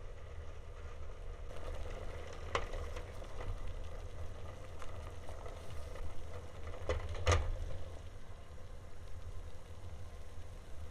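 A machine running with a steady low hum and a light hiss, with two sharp clicks about two and a half and seven seconds in.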